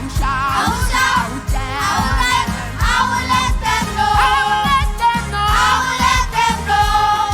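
Children's choir singing a lively gospel praise song over instrumental backing with a steady beat.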